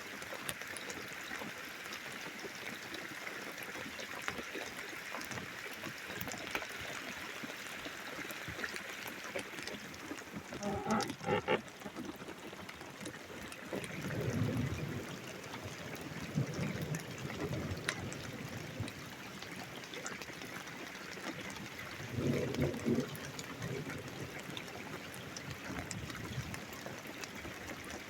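Steady hiss of rain through a thunderstorm, with low rolls of thunder swelling up about halfway through and again near the end. A short pitched call sounds briefly about eleven seconds in.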